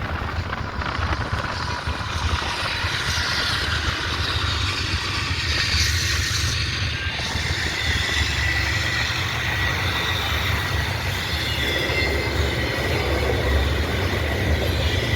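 Train rolling past: a steady rumble of rail cars on the track, with a faint high wheel squeal through the middle.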